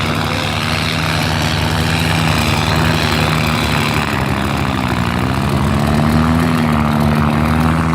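New Holland tractor's diesel engine running steadily; its pitch dips briefly about halfway through, then climbs back.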